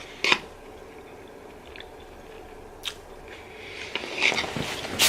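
Someone eating pasta close to the microphone: chewing and mouth noises, with a sharp click just after the start, another about three seconds in, and a busier patch of short sounds near the end.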